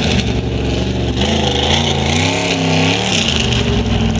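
Monster truck engine revving hard, its pitch rising and falling several times.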